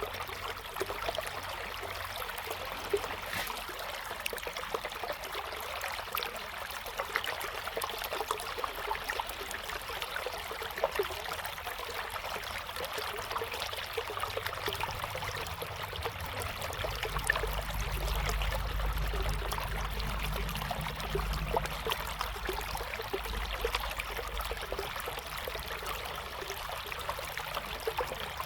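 River flowing: a steady rush of water with fine babbling splashes. A low rumble joins underneath for several seconds past the middle.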